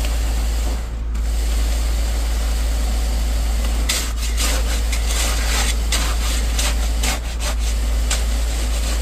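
Concrete pump's engine running with a steady low rumble; from about four seconds in, rough scraping comes and goes over it.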